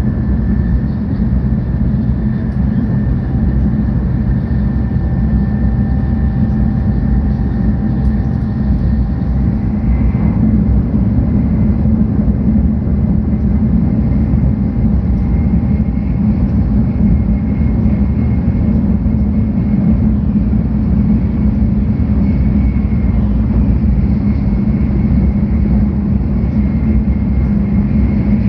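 Steady low rumble of a 700 series Shinkansen running along the line, heard inside the passenger car, with faint steady whining tones over it.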